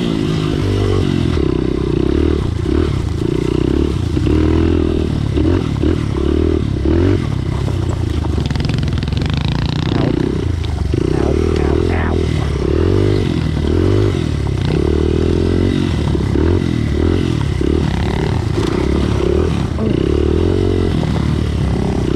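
Small pit bike engine revving up and down in short surges as the throttle is worked over and over, with scattered knocks and rattles from riding over rough trail.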